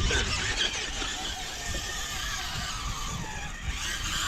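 Rock crawler's engine running steadily, with wind buffeting the microphone.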